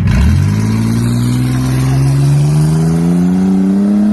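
Truck engine accelerating hard under load, starting abruptly and climbing steadily in pitch as the revs build.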